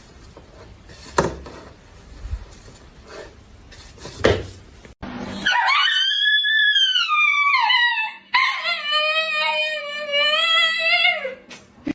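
A dog howling: two long drawn-out howls, the first rising and then falling in pitch, the second sliding down at its end. Two soft knocks come before them.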